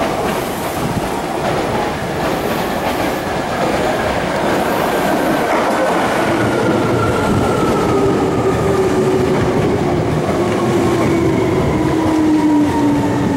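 Hankyu 3300 series electric train running into a station platform and passing close by, with its wheels clattering on the rails. A whine falls slowly and steadily in pitch as the train slows.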